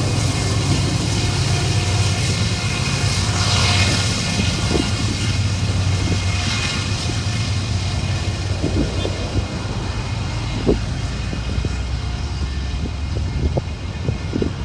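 Freight train running past: a steady low diesel drone with scattered knocks, like wheels over rail joints.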